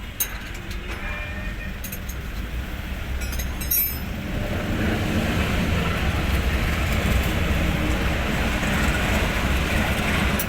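Hino 500 truck's diesel engine running with a steady low rumble that grows louder from about four seconds in, with a few light metallic clinks in the first seconds.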